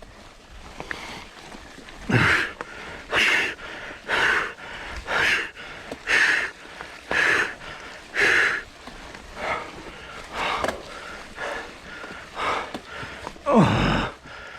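A mountain biker panting hard from exertion, with a strong breath about once a second that gets weaker in the second half. A falling groan comes just before the end.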